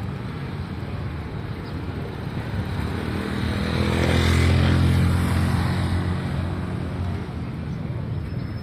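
A motor vehicle passing by, its engine growing louder toward about four to five seconds in and then fading away, over steady street noise.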